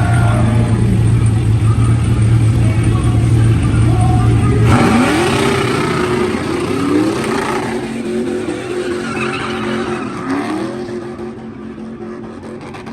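Car engines revving hard with tyre squeal during a drifting run. A steady low engine drone gives way about five seconds in to revs climbing and dropping again and again over a hiss of tyre noise, fading a little near the end.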